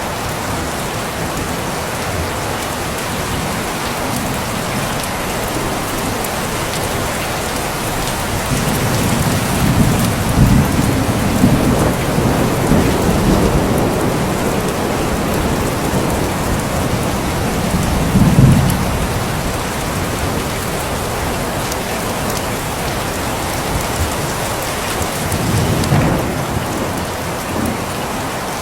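Steady heavy rain falling on a surface, with rolls of thunder rumbling low three times, the strongest about two-thirds of the way in.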